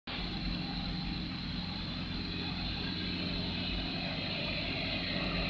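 Electric fan running with a steady buzzing hum: a few low tones under an even airy hiss.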